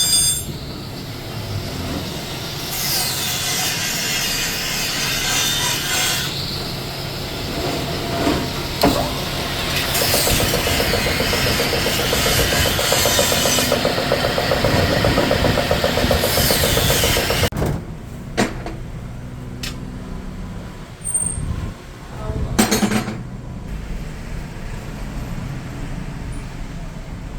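Power tool working on an aluminium alloy wheel: a loud, dense noise with high whines that rise and fall. It stops suddenly about 17 seconds in, and a few separate knocks follow.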